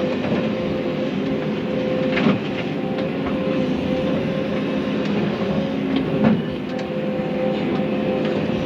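Volvo excavator's diesel engine running steadily with a constant hum, with two sharp knocks about two and six seconds in.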